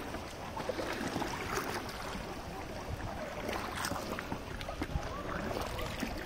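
River water rushing and splashing around a raft: a steady rush with a few small knocks.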